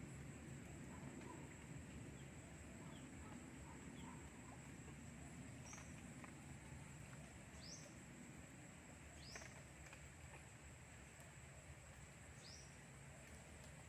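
Quiet outdoor ambience, near silence, with a bird calling faintly: four short, high, falling chirps spaced about two seconds apart in the second half.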